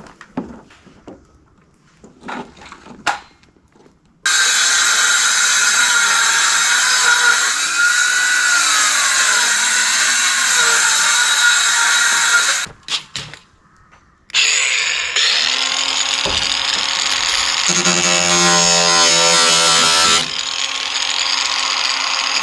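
A power tool runs in two long stretches, about eight and six seconds, with a short break between them; its pitch wavers as it works. Before it starts there are a few light knocks.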